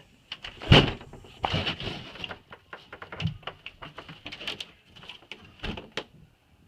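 Irregular crunches and thumps of a person floundering through deep fresh snow, with the loudest thump about a second in.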